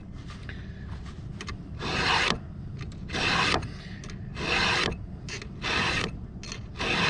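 A file rasping across a chainsaw chain's cutter teeth in five even hand strokes, about one every second and a bit: the chain being sharpened by hand.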